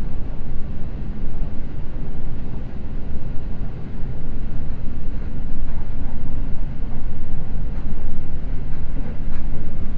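Seibu Red Arrow limited express train running at speed, its steady rumble heard from inside the passenger car, getting louder about halfway through.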